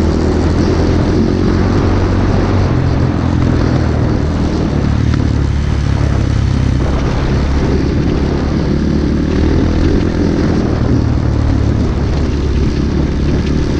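Pit bike engine running steadily while riding, a continuous low hum with a rushing haze over it.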